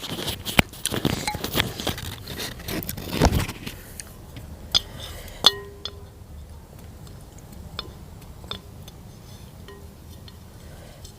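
Utensils clinking and scraping against dishes: a busy clatter for the first few seconds, then scattered clicks, with one ringing clink about five and a half seconds in.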